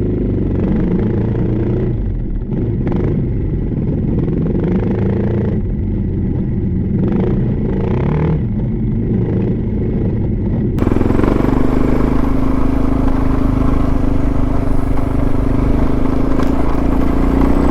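Suzuki DR650's single-cylinder four-stroke engine under way as the motorcycle is ridden, its note rising and falling through the first eleven seconds or so. Then the sound turns abruptly louder and steadier, with a rushing hiss over the engine.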